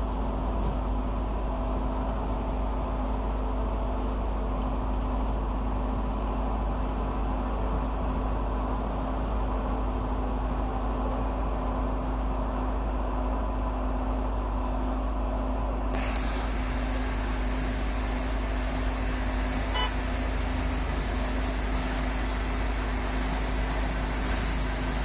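Automatic car wash machinery running with a steady hum and a few constant tones. About two-thirds of the way through, a brighter hiss joins and keeps on.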